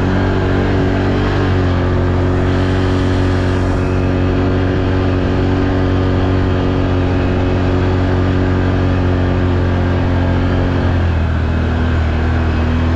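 ATV engine running steadily at moderate revs while riding the trail, its pitch dipping slightly about a second and a half in and again near the end.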